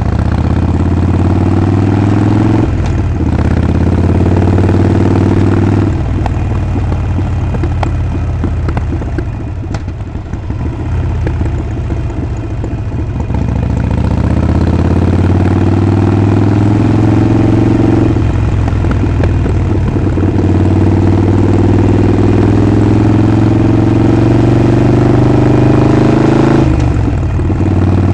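Harley-Davidson Sportster Forty-Eight's air-cooled 1200 cc V-twin running under way: the pitch climbs steadily as it pulls through a gear and drops at each shift, about three times. In the middle it falls back to a rougher, lower-pitched, slightly quieter running for several seconds before pulling up again.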